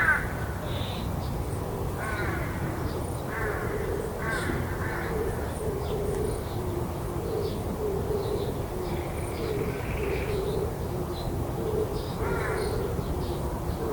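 Crows cawing, several harsh calls, the loudest right at the start and another near the end, over a steady low background rumble and a lower repeated call underneath.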